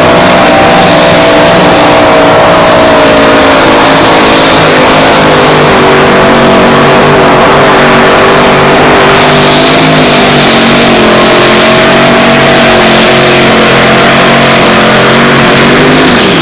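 Turbocharged two-wheel-drive pulling truck engine at full throttle down the track, running loud at high revs with its pitch wandering slightly. Near the end the pitch drops sharply as the engine is shut off.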